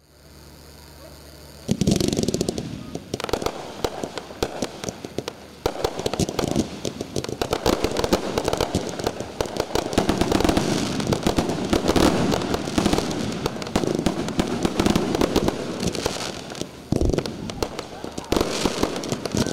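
Fireworks display going off in a dense barrage: many overlapping bursts and crackling from aerial shells and ground effects, starting suddenly about two seconds in and running nearly without a break, with a short lull and a strong bang near the end.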